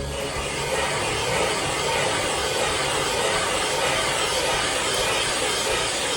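A steady, unchanging hissing machine noise.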